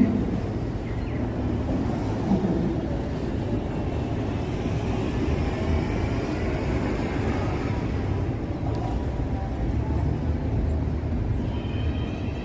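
Light rail train running past with a steady low rumble.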